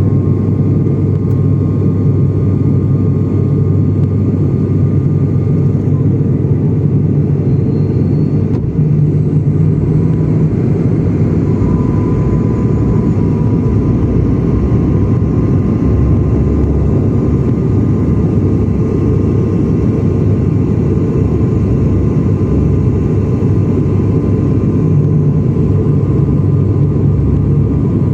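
Steady, loud drone of a passenger airliner's engines and airflow heard from inside the cabin, a low rumble with a faint steady whine above it.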